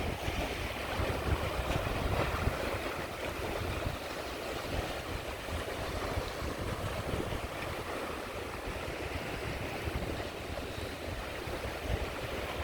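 Sea waves washing steadily onto a shore, with wind buffeting the microphone in low rumbling gusts.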